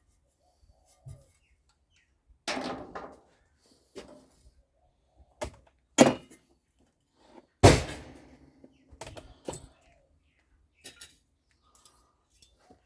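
Metal parts of a microwave oven being handled and knocked about while it is dismantled for scrap: a string of separate knocks and clanks, some ringing briefly, the loudest about six and eight seconds in.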